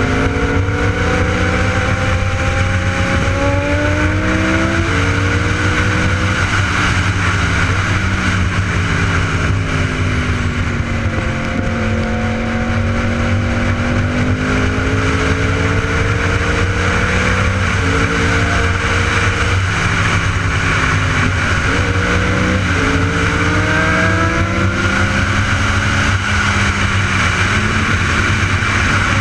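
Superbike engine accelerating hard, its revs climbing and dropping back sharply several times as it shifts up through the gears, with a stretch in the middle where the revs fall away and then build again.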